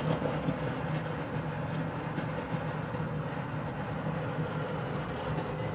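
Air-conditioning unit running just after starting up: a steady mechanical hum with a low droning tone. Its three-phase blower motor is drawing low current because it is wired to spin in reverse.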